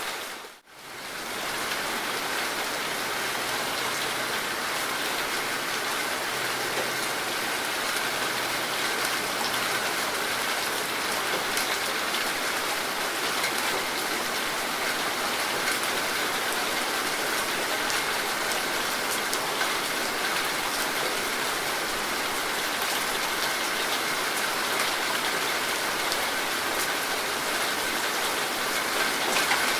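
Rain falling steadily: a dense, even hiss of drops on surfaces. About half a second in, the sound dips out briefly and fades back in.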